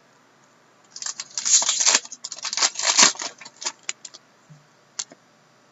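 Trading cards and their pack wrapper being handled: a dense run of crinkling, rustling and clicking from about one to four seconds in, then a few single clicks.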